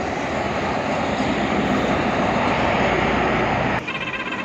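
Road traffic noise: a motor vehicle running close by, a steady rush of engine and road noise that eases off about four seconds in.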